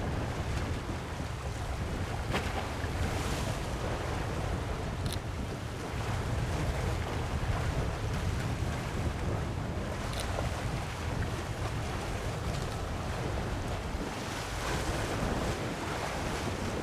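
Wind buffeting the microphone with a low rumble, over sea waves washing in, the surf swelling a little a few seconds in and again near the end.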